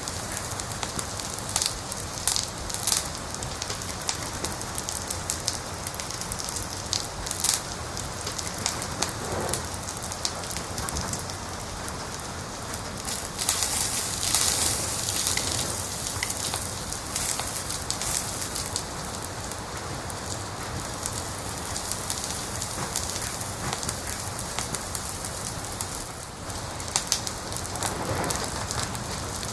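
Wood fire crackling: a steady hiss with frequent sharp pops and snaps, the hiss growing brighter for a couple of seconds about halfway.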